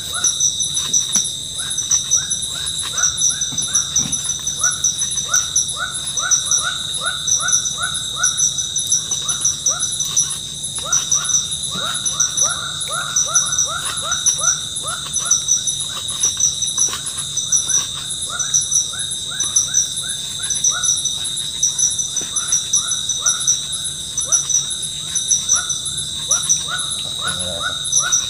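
A tropical forest insect chorus: a steady high buzz with fast pulsing trills above it, and runs of short falling chirps repeating several times a second.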